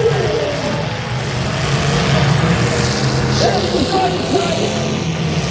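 Demolition derby cars' engines running steadily in the arena, with no crash impacts.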